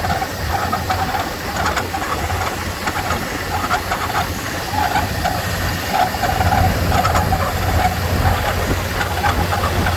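1995 Ford F-350's engine running steadily.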